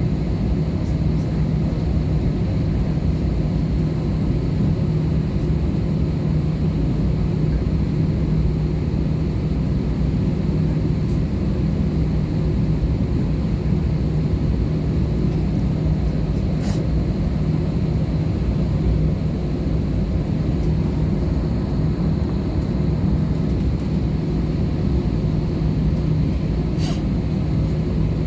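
Steady cabin noise inside an Airbus A320-214 in flight: the drone of its CFM56 engines and rushing airflow, with a steady low hum. There are two faint clicks partway through.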